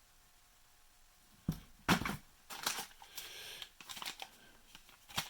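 Objects being handled. After a quiet stretch there is a knock about a second and a half in, then a louder thump, then rustling and light clicks, and a sharp click near the end.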